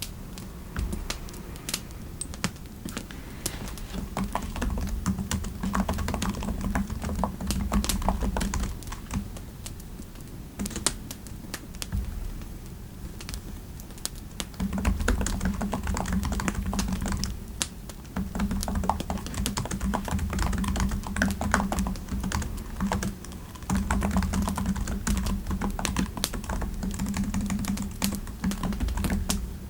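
Typing on a computer keyboard in quick runs of keystrokes, broken by short pauses every few seconds.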